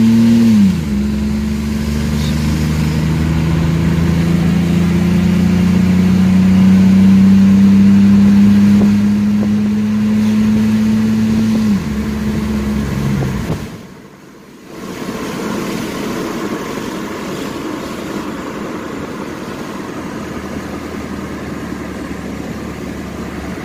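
Chevrolet 4.3 V6 of a 1994 S10 Blazer, heard through its glass-pack dual exhaust, held at raised revs and then dropping back near the start and again about twelve seconds in. After a short dip it idles roughly, with a dead miss on one bank.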